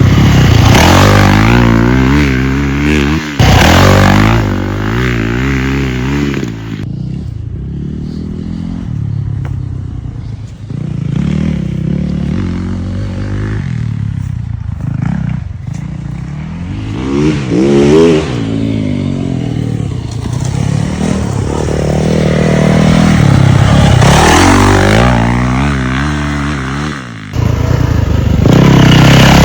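Yamaha YZ450F dirt bike's single-cylinder four-stroke engine being ridden, the revs rising and falling over and over through gear changes and throttle. It is loudest for the first several seconds and the last couple, quieter in between with sharp rev rises about two-thirds of the way through.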